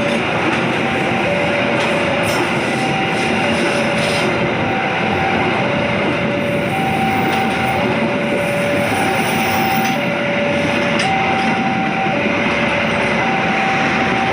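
Passenger train passing, a steady loud rumble of wheels and cars. Over it, a level-crossing warning alarm sounds two alternating tones, high then low, about one pair a second.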